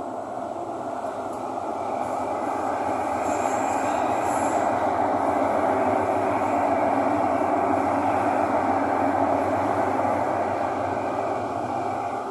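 Thomson-East Coast Line metro train running between stations, heard from inside the car: a steady rumble of wheels on rail that builds about two seconds in and eases near the end, with a brief high wheel squeal a few seconds in.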